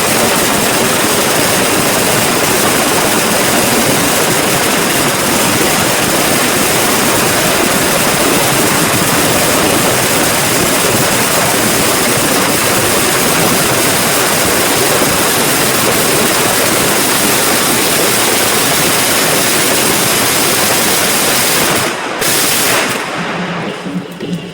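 A long string of firecrackers going off in one continuous, dense crackle. It stops abruptly about 22 seconds in, with a few last pops trailing off.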